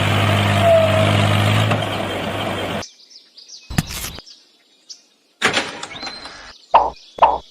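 A steady low mechanical hum that cuts off abruptly about three seconds in. Then faint bird chirps, a couple of short noisy bursts, and near the end a run of evenly spaced pulses, about two a second.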